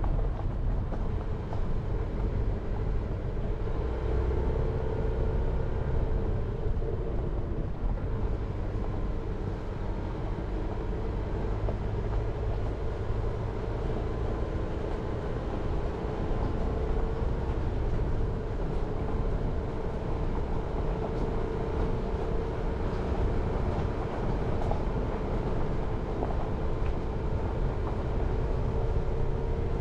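Jeep Renegade driving steadily: continuous engine and road noise with a low rumble and a wavering mid-pitched drone.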